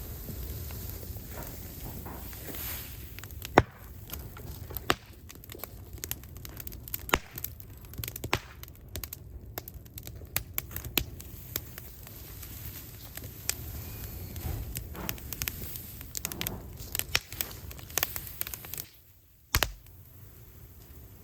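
Scrap wood fire burning in an incinerator, crackling with many sharp, irregular pops. The sound cuts out briefly near the end, followed by one loud knock.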